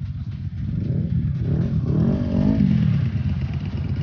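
Motorcycle engines running with a steady low rumble, one engine's pitch rising to a peak about two and a half seconds in and then falling back.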